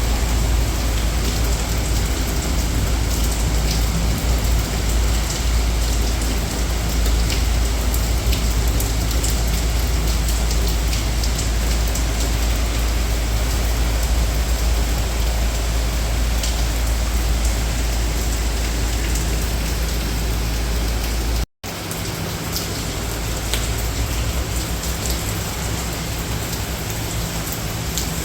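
Steady heavy rain falling and pattering on surfaces, an even hiss with a strong low rumble underneath. The sound cuts out for an instant about three-quarters of the way through, then carries on.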